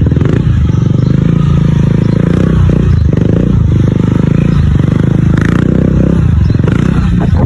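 Motorcycle engine running loud and close, its revs rising and falling several times.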